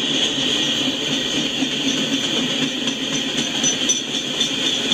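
Freight train cars rolling past on the rails: a steady, unbroken noise of steel wheels on track.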